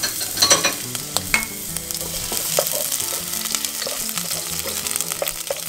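Minced garlic sizzling in hot olive oil in a pot while a wooden spoon stirs it, with a steady hiss and a few short taps of the spoon against the pot.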